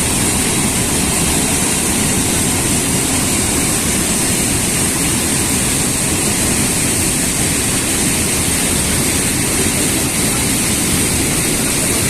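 Steady, loud rushing of a large waterfall heard from close below, an even wash of falling water with no break.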